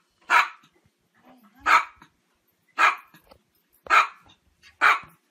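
Small dog barking five times at a steady pace, about one sharp bark a second.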